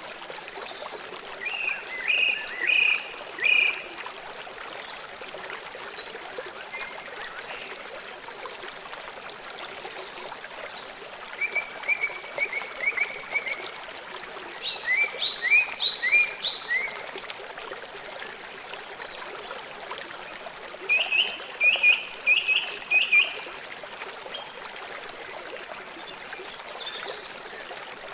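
A stream of water running steadily, with a songbird calling over it in four short phrases of rapidly repeated bright chirping notes, some sweeping upward.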